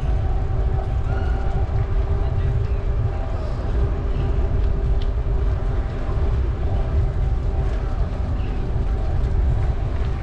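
Steady low wind rumble on the microphone of a moving bicycle, with faint voices of people nearby.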